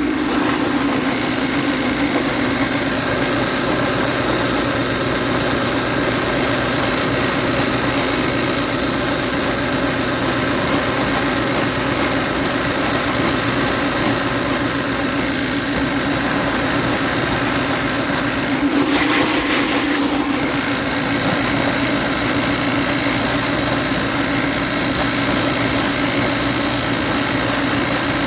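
Refrigerant recovery machine's compressor running steadily, pumping refrigerant into a recovery cylinder. A brief louder burst of noise comes about two-thirds of the way through.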